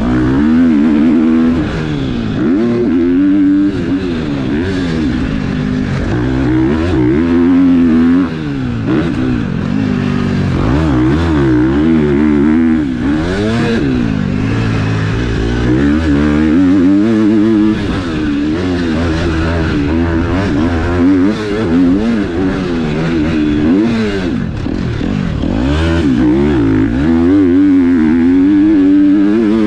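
KTM 250 SX-F four-stroke motocross bike engine revving hard and dropping off again and again, the pitch climbing and falling every second or two as the throttle is worked.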